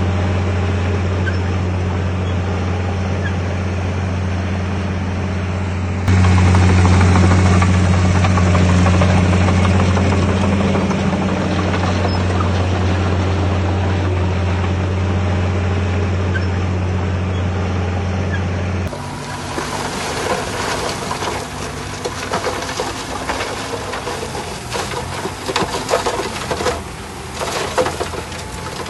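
Heavy diesel earthmoving machinery running steadily at a low, even pitch, getting louder about six seconds in. About two-thirds of the way through it gives way abruptly to a rougher, uneven clatter with scattered knocks and scraping.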